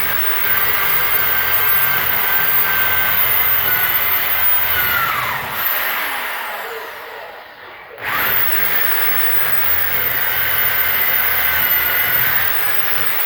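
Handheld electric power tool run twice: a steady high whine for about five seconds, winding down in pitch when released, then started again after a short pause and wound down once more near the end.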